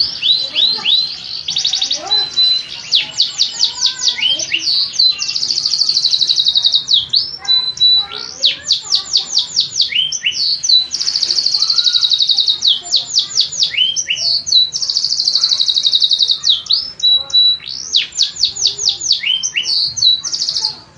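Domestic canary singing a long, loud song: fast trills of repeated sweeping notes alternating with steady, even rolls, phrase after phrase without a break.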